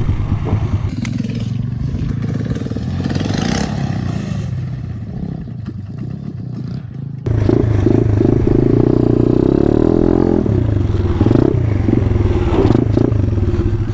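Small single-cylinder off-road bike engine running at varying revs. About halfway through it suddenly gets much louder and is revved hard and held high, then rises and falls.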